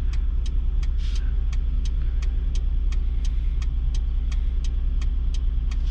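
Pickup truck engine idling steadily, with a sharp, regular ticking about two to three times a second.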